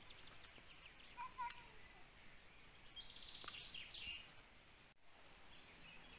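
Faint outdoor ambience with small birds chirping and twittering in the background.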